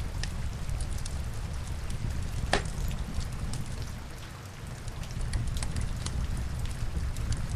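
Rain and a crackling log fire together: a steady low rumble and rain hiss, with scattered sharp crackles and one loud pop about two and a half seconds in.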